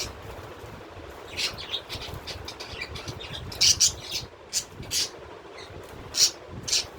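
Caged pet birds chirping: a string of short, sharp high-pitched calls at irregular intervals, the loudest in the middle and near the end, over a steady low rumble.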